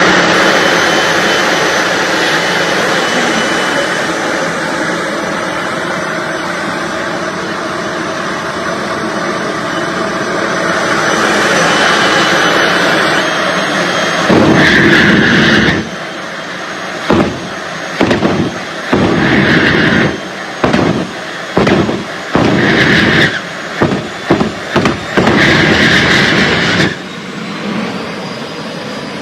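Jet engine of a jet-powered race car running with a strong, steady roar. About halfway through it switches to a series of abrupt loud blasts cut off between short gaps, about a dozen in all.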